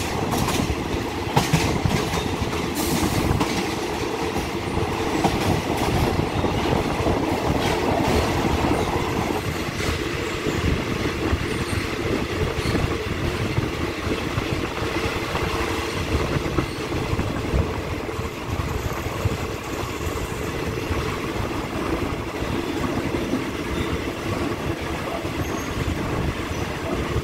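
Express passenger train running on the rails, heard from aboard a coach: a steady rumble and rattle of wheels on track, with sharp clicks in the first few seconds.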